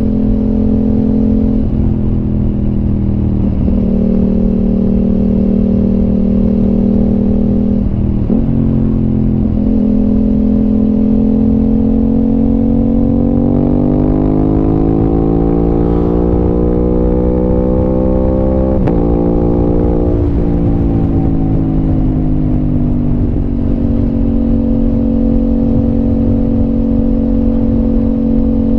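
Aprilia RS 660 parallel-twin engine through an SC Project exhaust, running at steady road revs. The pitch dips briefly twice early on. About halfway through the revs climb for several seconds under acceleration, then drop suddenly at a gear change. They ease down and settle back to a steady cruise.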